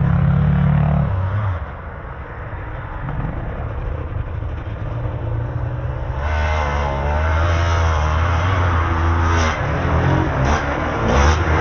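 Motocross dirt bike engine revving hard, dropping off about a second and a half in as the throttle is closed, then climbing back from about six seconds with the revs swinging up and down through gear changes.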